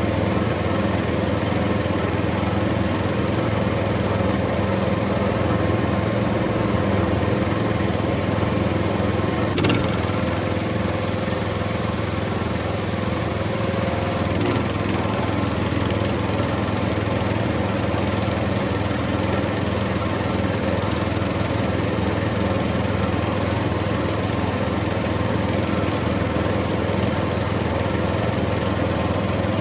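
A small engine running steadily, with a single sharp click about ten seconds in.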